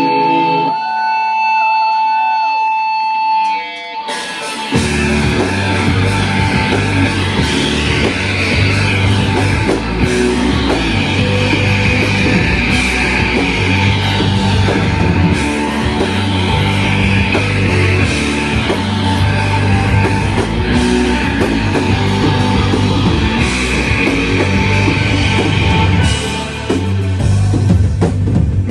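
Live shoegaze rock band playing: held droning tones for the first few seconds, then the full band comes in about four seconds in with dense guitars and drums.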